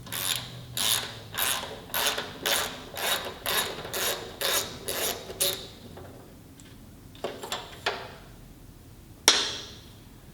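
Hand ratchet wrench being worked on a bolt, about two ratcheting strokes a second for five seconds, then stopping. A few light clicks follow, and near the end a single sharp knock, the loudest sound.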